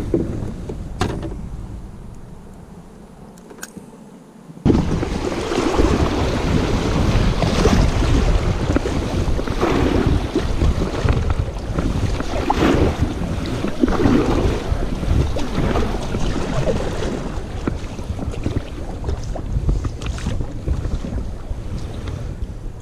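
Wind buffeting the microphone on a kayak, with water noise, starting suddenly about four and a half seconds in as a loud, steady rumble and hiss. Before that it is quieter, with two sharp clicks.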